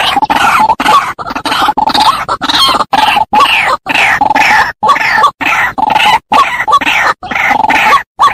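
White-breasted waterhen (ruak-ruak) calls played loud as a bird-trapping lure: short calls repeated in quick succession, cut by abrupt silent gaps about twice a second.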